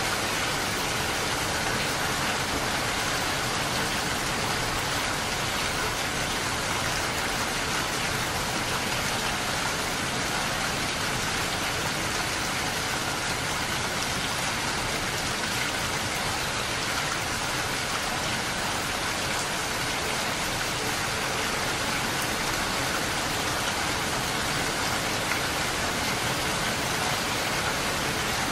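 Steady rain falling, an even hiss of drops that holds at the same level throughout with no let-up.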